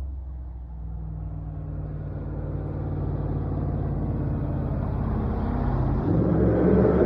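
2019 Ford F-150 pickup's engine sounding through a Borla ATAK aftermarket exhaust, a low steady drone that grows gradually louder and steps up sharply about six seconds in as the throttle opens.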